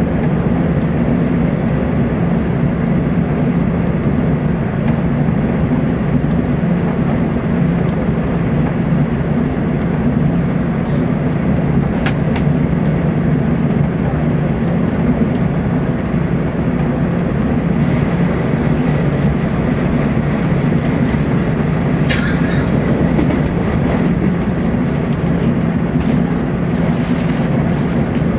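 Cabin noise of a Taiwan Railways TEMU2000 Puyuma tilting electric train running at speed: a steady low rumble of wheels on rail. A sharp click about twelve seconds in and a short rattle about twenty-two seconds in.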